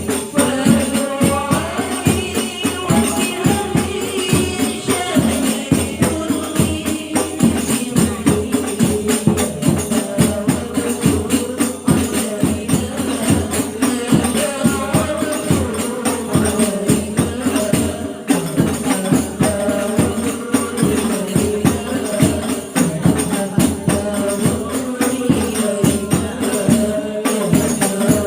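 Sholawat sung by a group of women over hadroh frame drums (rebana) beating a steady, dense rhythm.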